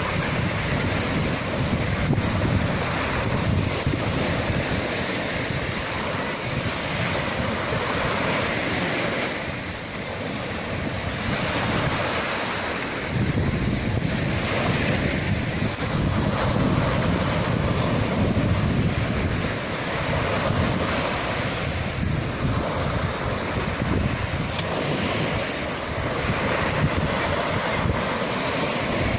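Sea waves washing in as a continuous rush of surf that swells and eases every few seconds, with wind rumbling on the microphone.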